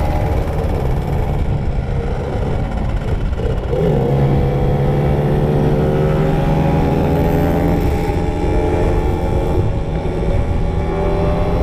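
Small two-stroke motorcycle engine accelerating under way, its pitch climbing steadily. The revs drop briefly for a gear change about four seconds in and again near the end.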